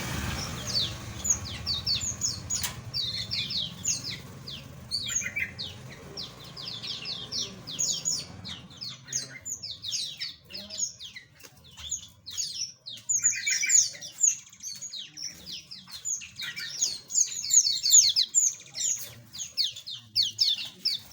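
A flock of small aviary birds chirping: many short, high calls overlapping one another without pause, with a few buzzier, lower calls mixed in.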